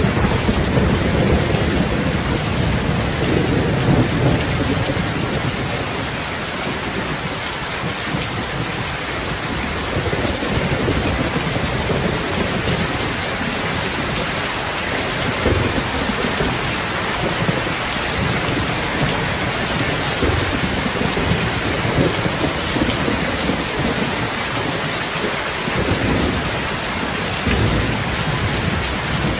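Heavy rain falling steadily, with a low rumble of thunder that is strongest in the first few seconds and fades back, plus a few more low rumbles later on.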